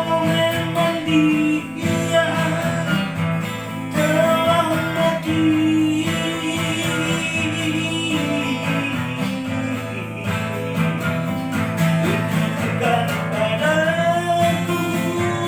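Acoustic guitar playing a song's instrumental passage between sung verses, with a melody line that slides up and down over the strummed and picked chords.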